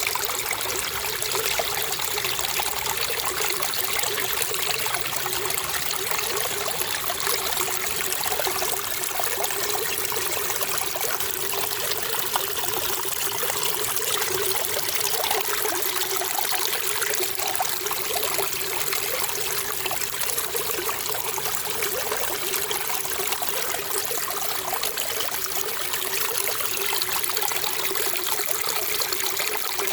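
Running water trickling and flowing steadily, with no pauses or changes.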